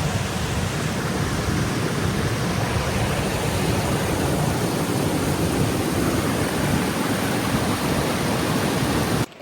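Steady rushing of a waterfall, an even noise of falling water without a break, cutting off suddenly near the end.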